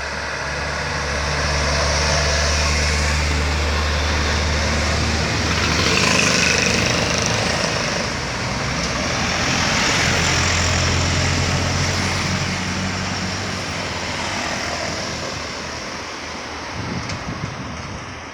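Loaded diesel trucks driving past uphill, with low engine tones under load and tyre and road noise. The sound is loudest about six and ten seconds in.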